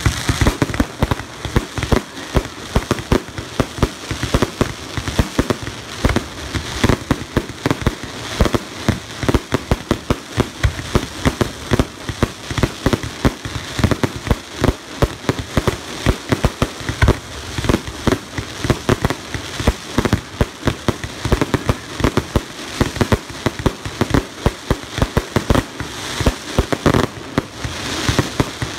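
A fireworks display in full flow: a rapid, continuous barrage of bangs and crackles, many to the second, with no let-up.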